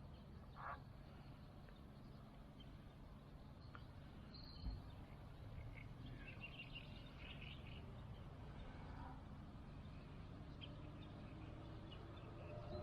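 Quiet background with a low steady rumble and a few faint, short bird chirps about six to eight seconds in.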